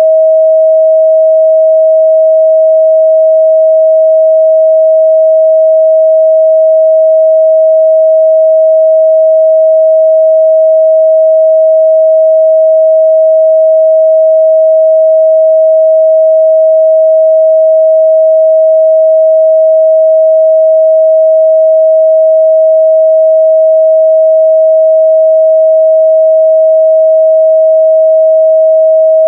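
A steady, loud 637 Hz sine-wave test tone, one pure pitch held unchanged throughout.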